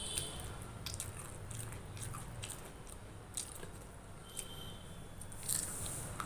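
Close-miked eating: chewing and wet mouth smacks on a mouthful of rice and curry eaten by hand, with scattered soft clicks over a faint steady low hum.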